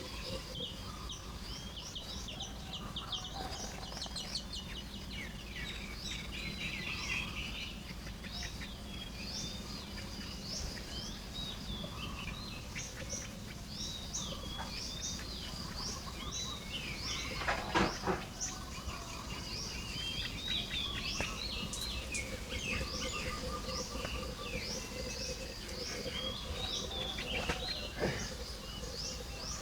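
A group of baya weavers calling at their nests while nest-building: many short, overlapping chirps and chattering trills go on all through. There is one brief louder burst about two-thirds of the way through.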